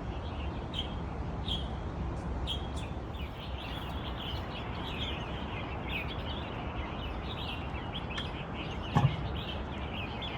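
Several small birds chirping and twittering in quick, overlapping calls over a steady low rumble. A single short thump about nine seconds in.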